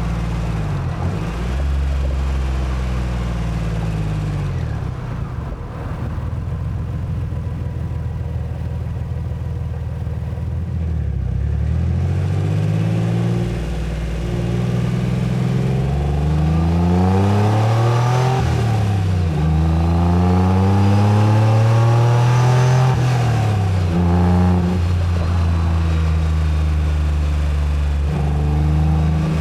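1990s Acura NSX's mid-mounted V6 pulling through the gears: the engine note climbs with revs, then drops at each upshift, several times over, with harder, higher-revving pulls in the second half.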